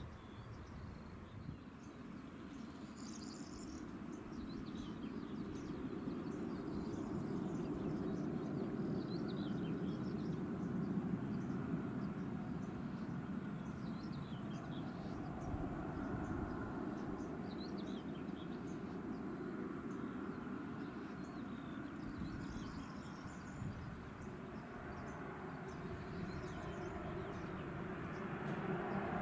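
Small birds chirping over a steady low rumble that slowly grows louder.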